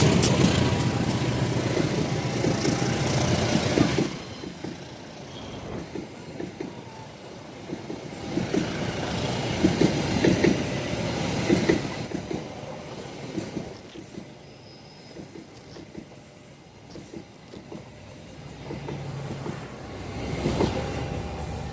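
A train passing on the tracks, loud at first and dropping off suddenly about four seconds in, then the clatter of wheels over the rails coming and going in quieter waves.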